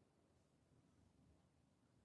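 Near silence: faint background noise.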